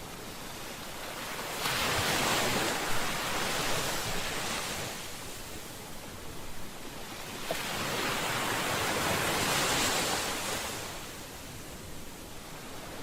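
Ocean waves breaking and washing up a shore, with no voices or music. One wave breaks suddenly about one and a half seconds in and washes out, and a second swells more slowly past the middle and fades near the end.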